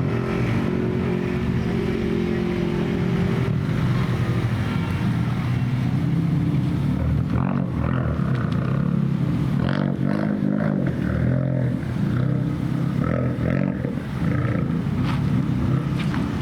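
Car engine running at low revs, a steady exhaust rumble with small shifts in pitch.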